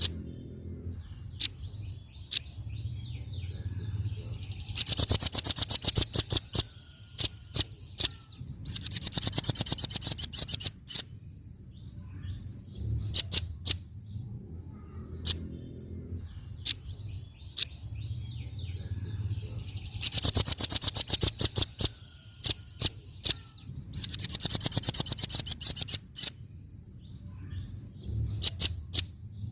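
Velvet-fronted nuthatch calling: sharp single high chip notes and four fast rattling trills of repeated notes, each about two seconds long. The same sequence of calls comes round again about fifteen seconds later, as in a looped recording.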